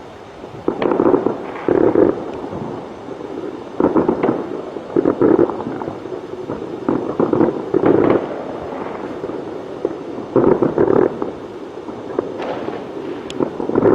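Fireworks going off: loud bangs and crackling bursts in clusters every second or two.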